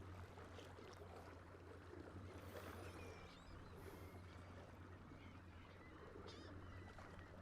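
Faint water sounds along a kayak's hull as it moves across open water, over a steady low hum, with two brief hissy splashes about two and a half and four seconds in.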